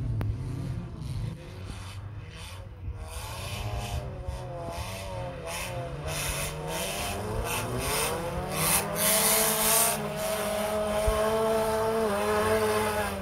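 Several old cars' engines revving hard on a muddy dirt track, their pitch rising and falling as they accelerate and back off. The engines grow louder and overlap more in the second half, with a strong hiss for a second or so past the middle.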